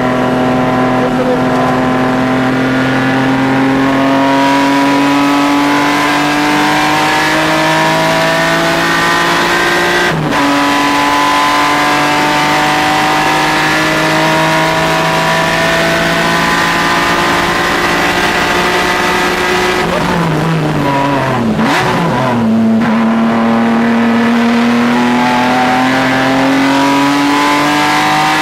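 Race car engine on a lap of a track: revs climb slowly, drop sharply on an upshift about ten seconds in, and climb again. Around twenty seconds in the revs fall in steps with short blips as it brakes and downshifts for a corner, then climb once more.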